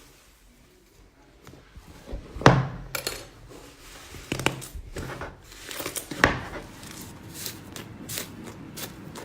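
Slime being handled: after a quiet start, a series of sharp clicks and snaps, the loudest about two and a half seconds in, then a quick patter of small clicks near the end.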